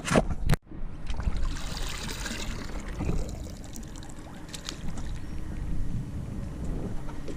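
Small boat on the water: a steady low motor hum with water trickling and splashing against the hull. A loud knock in the first half second, then a sharp break.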